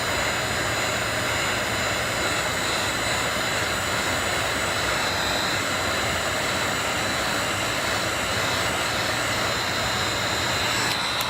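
Heat gun blowing steadily with a high whine over its airflow, switched off abruptly at the very end. It is heating the adhesive that holds the iPad's screen to soften it for prying open.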